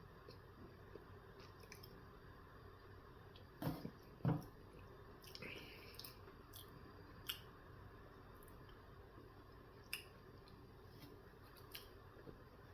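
A person quietly chewing a steak, egg and cheese bagel sandwich, with scattered soft mouth clicks and smacks. Two louder knocks come close together about four seconds in.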